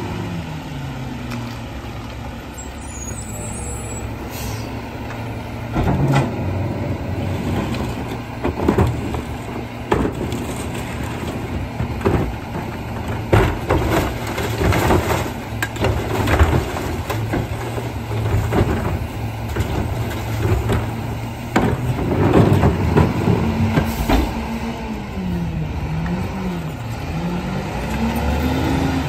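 Garbage truck engine running steadily, with repeated knocks and clatter through the middle as the truck works its bins. Near the end the engine revs up and down several times.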